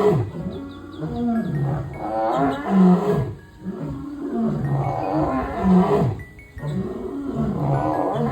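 African lion roaring: a string of repeated, drawn-out calls, briefly pausing twice.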